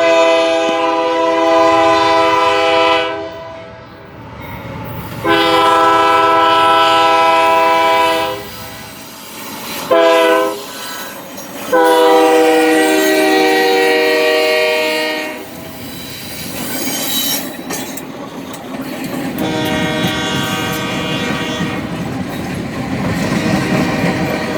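Union Pacific GE AC4400CW locomotive's Nathan K3LA five-chime horn sounding the grade-crossing signal: two long blasts, a short one and a final long one, the chord dropping in pitch during the last blast as it passes. The horn gives way to the rising rumble of the locomotives and wheels of the passing freight train.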